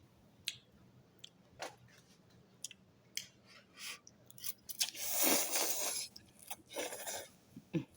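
Someone eating instant ramen noodles close to the microphone: wet mouth clicks and chewing, with a louder noisy stretch of about a second around five seconds in.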